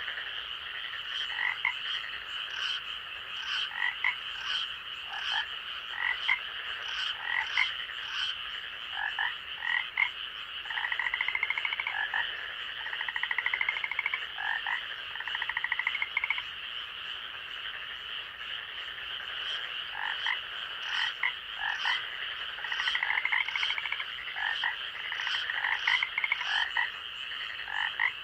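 Frogs calling in a night-time forest chorus: many short, rising calls, repeated, and two long, rapid pulsed trills, all over a steady high-pitched drone.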